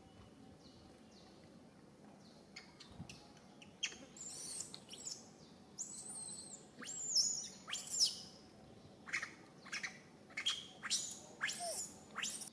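Baby monkey crying in a series of shrill, high-pitched squeals. They start about four seconds in, many sliding quickly down in pitch and some held with a wavering pitch, the loudest around the middle.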